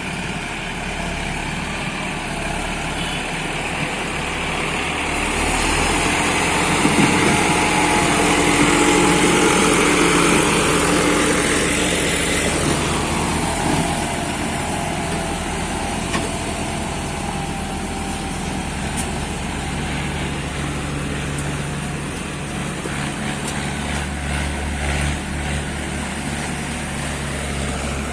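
Tractor engine running steadily while hauling a full trolley of sugarcane. It grows louder for several seconds near the middle, then settles back to an even run.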